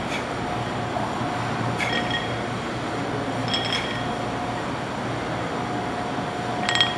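Metal gym weights clinking about four times during a set of curls: short, sharp, ringing clinks, the loudest just before the end, over a steady background hum.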